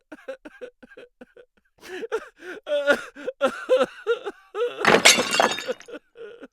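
A quick run of short squeaky, pitch-bending sounds, then a loud crash with a shattering, breaking noise about five seconds in.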